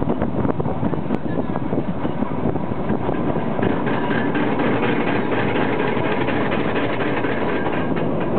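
Narrow-gauge toy train running, a steady rumble and rattle of the coach with many small clicks from the wheels on the track.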